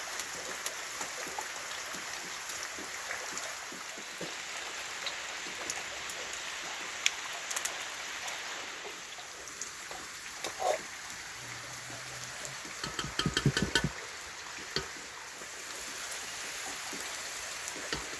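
Steady heavy rain hissing, with scattered drips. About two-thirds of the way through comes a brief run of quick, sharp animal calls.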